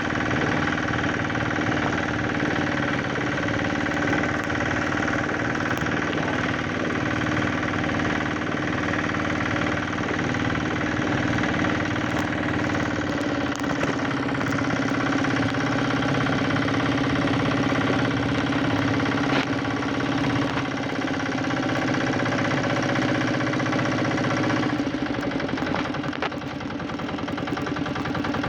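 Boat engine running steadily with a constant droning note. About 25 seconds in, its lower rumble drops away and it gets a little quieter.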